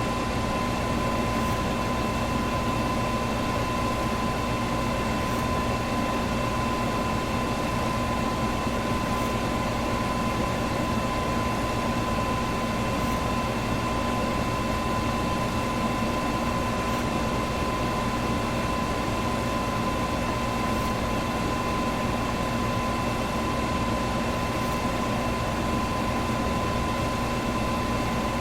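Electric box fan running steadily: an even rush of moving air with a steady motor hum and a thin whine held through it.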